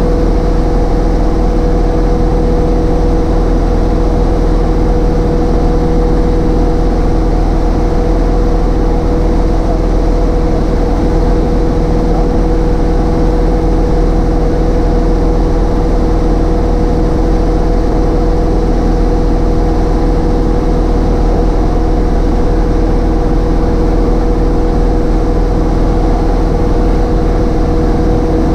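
Cessna 152's four-cylinder Lycoming engine and propeller running steadily, heard from inside the cabin as a constant drone with two steady tones over it.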